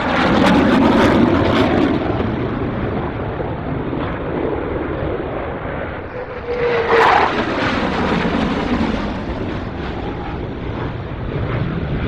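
Military jet aircraft flying low past, a loud rushing engine noise that slowly fades, with a short louder swell about seven seconds in.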